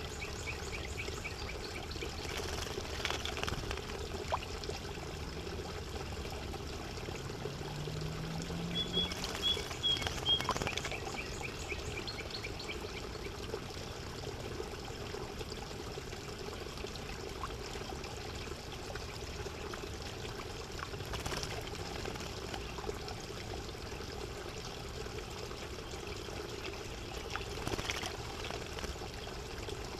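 Steady trickling water, with a spotted towhee singing twice over it: a few short high notes followed by a rapid trill, once right at the start and again about ten seconds in.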